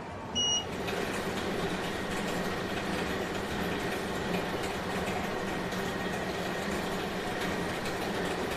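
A short electronic beep, then a steady mechanical background hum.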